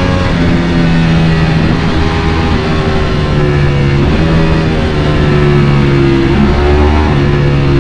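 Ducati Panigale V4 engine running at a steady cruise, its pitch sagging slightly and picking back up about four seconds in.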